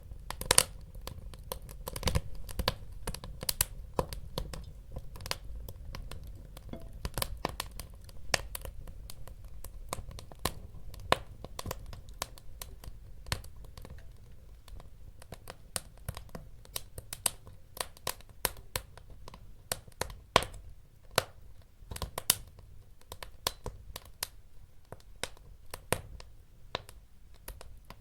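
Wood fire crackling and popping: irregular sharp snaps several times a second, a few much louder, over a low steady rumble of the burning logs.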